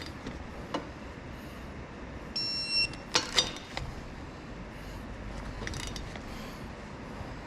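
A short electronic beep, then several sharp clicks and knocks in quick succession, with a few fainter clicks a little later, over a steady low background noise.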